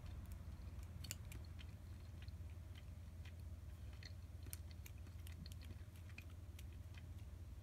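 Faint chewing of simmered flounder, with scattered light clicks, over a steady low hum.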